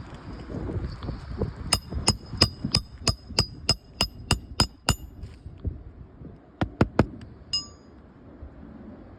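Hammer blows on metal with a bright ringing tone: a quick run of about ten strikes, roughly three a second, then a pause, three more blows and a last single ringing strike.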